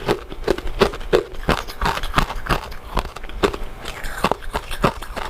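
Close-miked chewing of soft, chewy glutinous rice desserts: a run of short, wet, sticky mouth clicks, about two or three a second.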